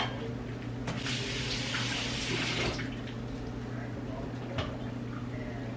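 Kitchen tap running for about two seconds, starting about a second in, with a low steady hum underneath and a light knock near the end.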